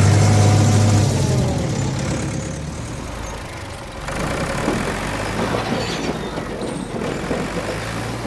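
An engine idling with a steady low hum that dies away over the first two seconds, followed from about four seconds in by a rougher, noisier running sound.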